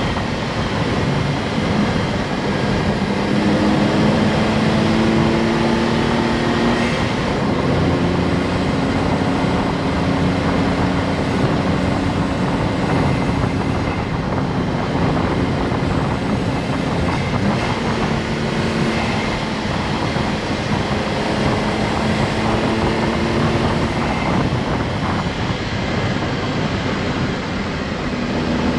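Honda S660's small turbocharged three-cylinder engine running while driving, over steady road noise. Its pitch holds or climbs, then drops and picks up again several times as it moves through the gears.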